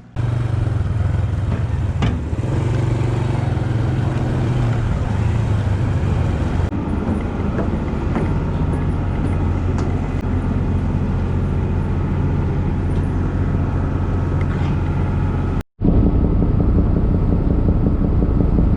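Honda Super Cub's single-cylinder four-stroke engine running steadily while riding, with road and wind noise. The sound cuts out briefly about three-quarters of the way through, then carries on with a slightly different tone.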